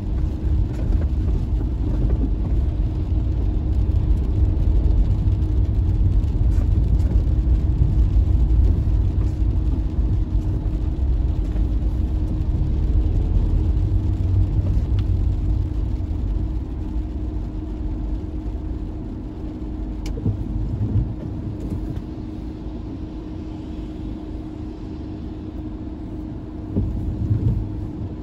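A car driving, with a steady low engine and road rumble and a constant hum, getting somewhat quieter about halfway through.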